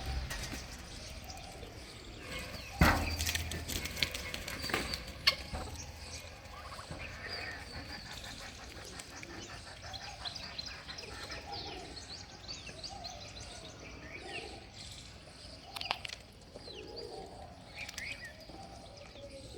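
Farm birds calling: many short high chirps alongside lower fowl calls throughout, with a few sharp knocks about three and five seconds in.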